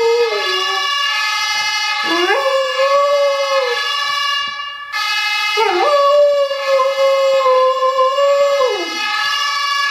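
A dog howling, three long howls that each swoop up, hold and sink away at the end, along with a siren sound (German Martinshorn) played from a mobile phone's speaker.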